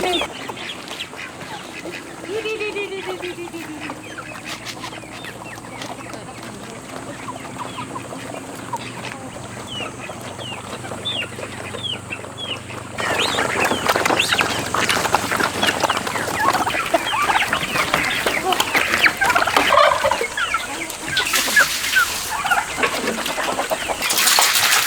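A flock of farm poultry calling and clucking, with many short chirping calls, growing busier and louder about halfway through.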